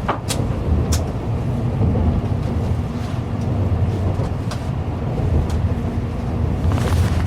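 Shinkansen bullet train running, heard from inside the passenger cabin: a steady low rumble with a few short, sharp ticks scattered through it.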